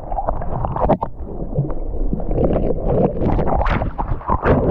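Sea water sloshing, splashing and gurgling right at the microphone during a swim, with some wind buffeting.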